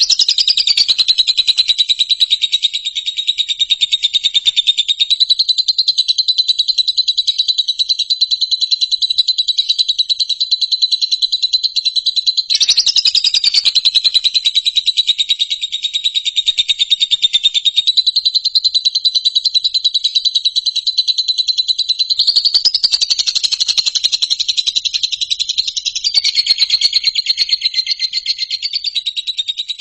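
A loud, continuous, fast-pulsing high trill of an animal call, renewed with a short falling glide about twelve seconds in and again about twenty-two seconds in, and fading near the end.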